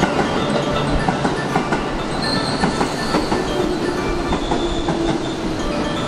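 JR West 221-series electric train running into the platform. Its wheels click over the rail joints in a quick, uneven patter under a steady rumble. A thin high squeal comes about two seconds in and lasts a second or so.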